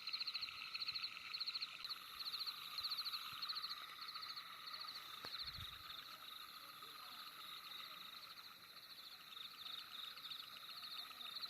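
Night chorus of calling animals: rapid high-pitched pulsed trills repeating about twice a second over a steady lower chirring. A soft low thump comes about five seconds in.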